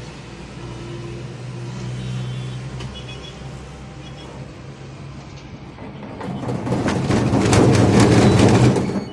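Washing machine running with a steady low hum. About six seconds in, a loud rattling noise builds up, peaks, then cuts off suddenly near the end.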